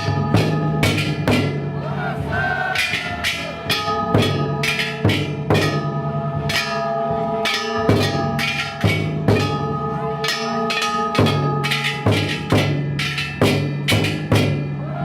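Ishidori festival float's hand-held bronze gongs (kane) clanging in fast, uneven strikes over a big taiko drum, the gongs' metallic ringing hanging on between strikes.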